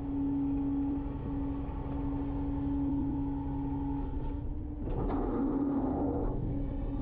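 Garbage truck running with a steady hum. About five seconds in, a louder, rougher noise rises over it for about a second and a half.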